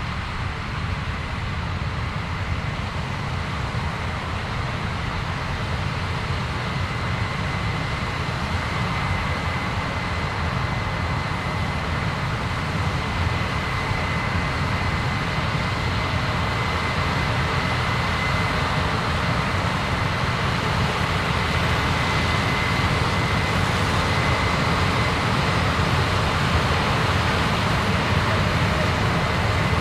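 Heavy farm machinery running steadily during corn harvest, with a thin high whine over the engine noise, growing gradually louder.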